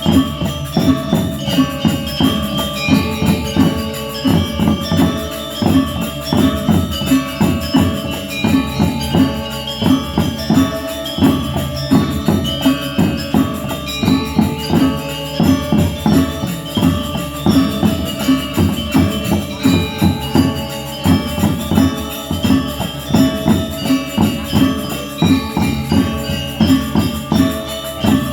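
Gamelan ensemble playing: metal keyed instruments and gongs ringing in layered, fast repeating patterns over a steady low rhythmic pulse.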